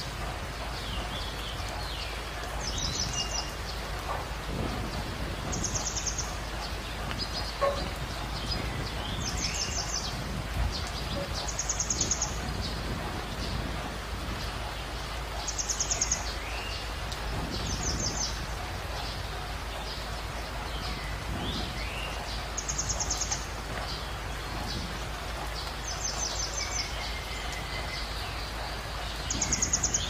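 Birds calling after rain: a short, high, rapid trill repeats every few seconds and is the loudest sound, with scattered lower chirps and whistles over a steady outdoor hiss.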